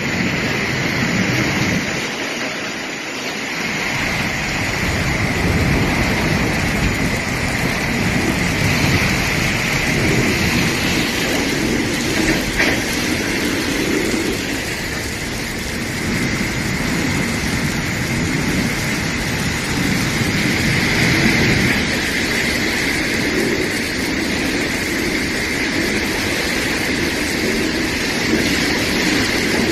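Heavy storm rain and rushing floodwater making a steady, loud wash of noise, with uneven low rumbling underneath.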